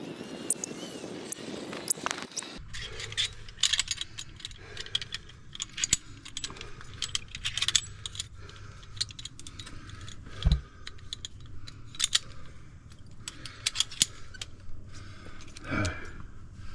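Metal climbing gear, carabiners, clinking and jangling in many quick irregular clicks as rope and gear are handled, with one dull thump about ten seconds in.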